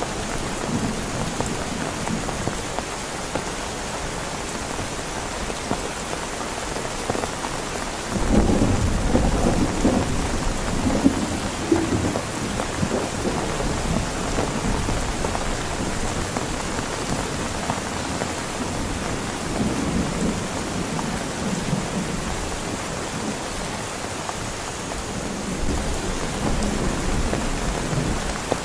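Heavy rain falling steadily, with thunder. A loud rumble of thunder breaks in suddenly about a third of the way through and rolls on for several seconds, and fainter rumbles follow later.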